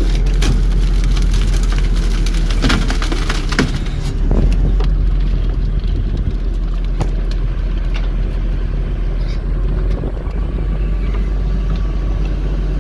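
Grapple truck's diesel engine running steadily while the grapple works a load of brush, with repeated cracking and snapping of branches, thickest in the first four seconds and scattered after.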